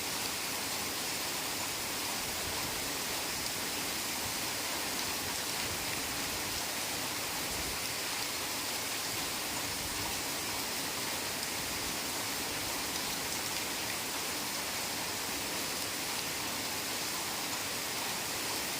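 Heavy rain falling steadily in a forest, an even hiss of downpour without distinct drops or breaks.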